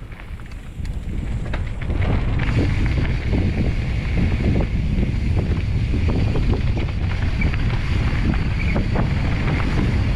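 Wind rushing over the microphone and mountain-bike tyres rolling fast over a dirt trail, with frequent small knocks and rattles from the bike over bumps. It gets louder about two seconds in, as speed picks up.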